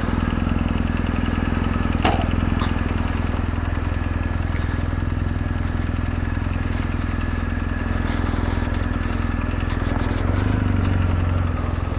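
BMW R1250 GS Adventure's boxer-twin engine idling steadily, with a single sharp click about two seconds in and a short louder stretch near the end.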